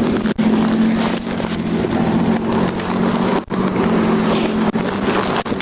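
Steady engine hum under heavy wind noise buffeting the microphone, with passing road traffic.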